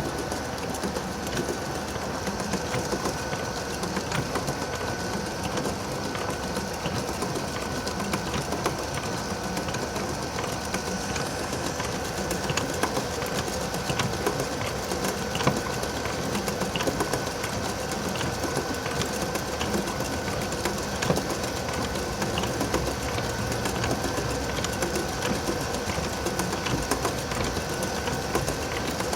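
Restored antique wooden washing machine running, its agitator driven by a high-speed electric motor; a steady mechanical run with a fast, even clatter from the mechanism.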